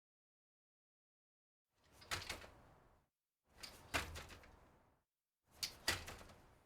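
Three short clattering knocks about two seconds apart, each two or three sharp clicks followed by a rustling tail that fades within about a second.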